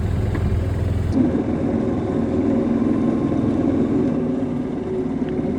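Golf cart driving along, with steady motor and tyre noise; the sound changes abruptly about a second in.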